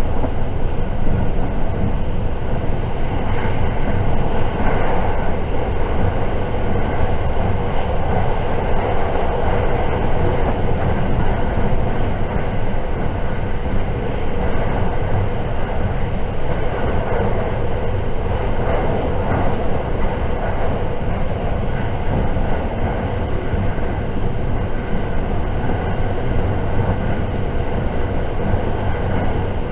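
Steady running noise inside a passenger car of a 681 series electric limited express train, a continuous low rumble of wheels on rail.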